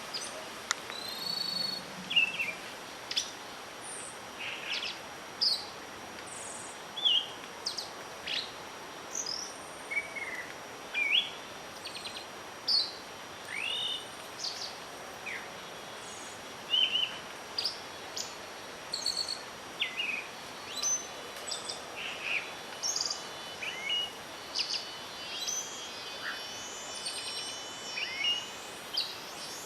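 Several wild birds calling and singing in short chirps and whistles, about one a second, over a steady background hiss of wind; the chorus grows busier with overlapping trills near the end.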